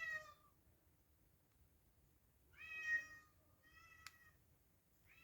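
A domestic cat meowing four times, each call short with a pitch that falls away at the end, with a sharp click during the third.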